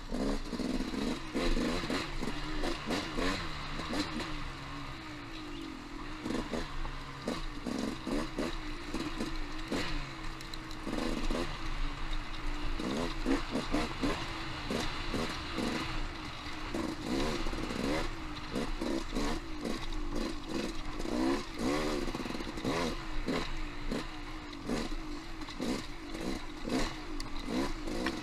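Off-road motorcycle engine running on singletrack, the throttle rising and falling again and again, with frequent clattering knocks from the bike working over the rough trail.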